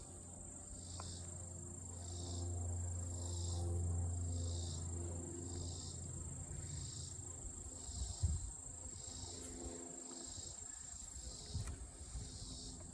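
Insects chirping in an even rhythm, about one chirp a second, over a low steady hum from an open honeybee hive. Two short knocks come in the second half.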